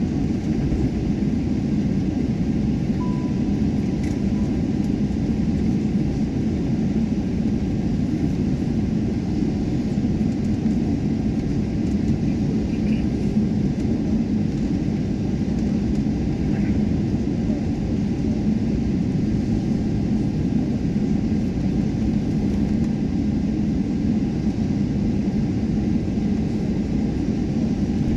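Steady low rumble heard inside the cabin of a Boeing 777-300 as the airliner taxis.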